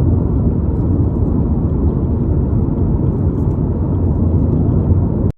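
A loud, steady low rumble with no clear pitch, cutting off abruptly near the end.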